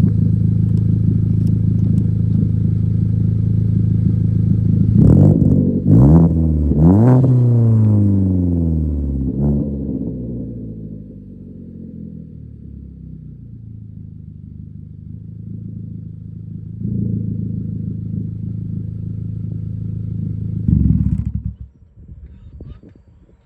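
2014 Ford Focus engine running through a resonator-deleted exhaust: idling, then revved three times in quick succession about five seconds in and once more lightly, before settling back to a steady idle. Near the end it blips once and cuts off.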